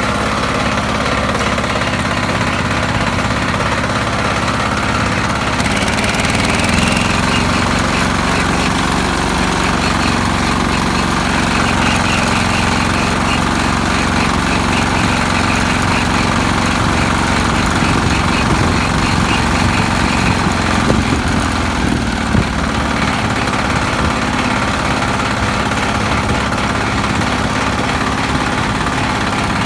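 Motor Sich walk-behind tractor's engine running steadily as the machine drives along a dirt road. Its pitch rises about six seconds in and then holds, and there is a brief knock a little past twenty seconds.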